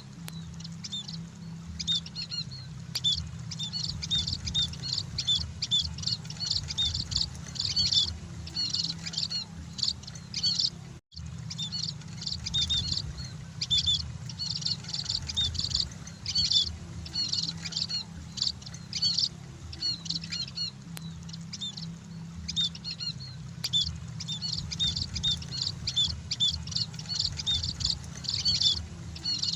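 A flock of munias (emprit) chirping continuously, with many short, high calls overlapping, over a steady low hum. The sound cuts out for a moment about eleven seconds in.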